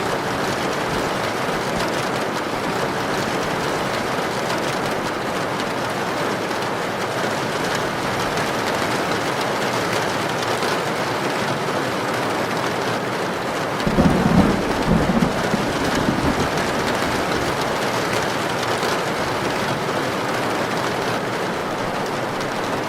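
Heavy rain, a steady dense hiss. A short low rumble of thunder comes a little over halfway through.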